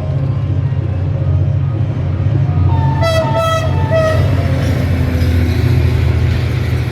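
Henschel diesel locomotive hauling a passenger train: a steady low engine drone, with a short two-note horn blast about three seconds in, then a growing rush of wheel and carriage noise as the train passes.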